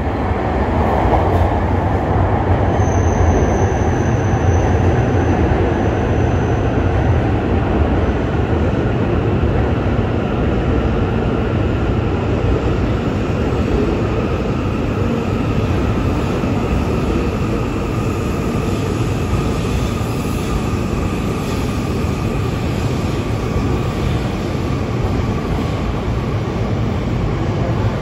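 E5 series Shinkansen train running slowly into the platform: a steady rumble and rush of the passing cars, with a faint whine that sinks in pitch as it slows. A brief thin high squeal comes about three seconds in.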